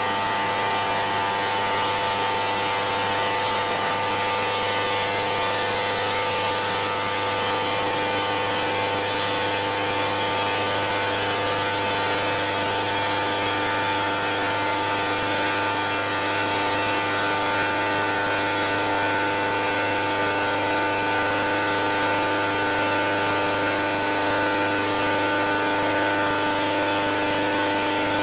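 CNC stone router's spindle running steadily on quartz stone, a continuous high whine of several steady tones over an even rushing noise.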